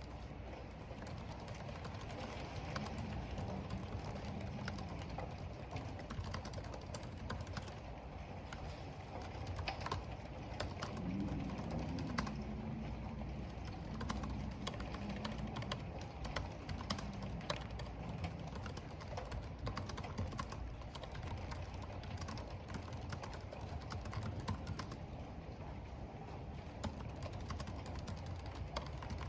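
Computer keyboard typing, quick irregular key clicks, over a steady background of wind and rain.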